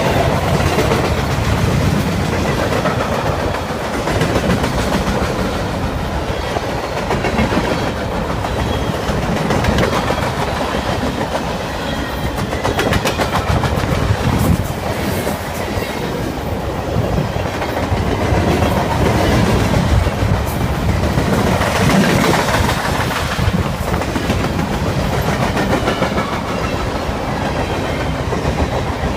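CSX freight train cars rolling past, a steady loud rumble with wheels clattering over the rails.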